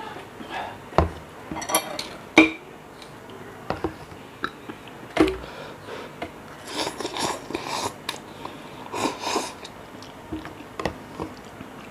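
Someone eating cup noodles: scattered sharp clicks and knocks of a utensil against the cup, with short clusters of mouth sounds of eating later on.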